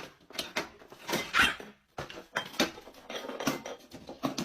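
Cats fighting: irregular scuffling knocks and clatters, with a louder burst about a second and a half in.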